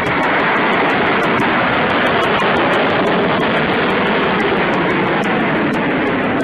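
Loud, steady aircraft noise, a dense even rush of engine and air sound with no distinct strokes or changes in pitch.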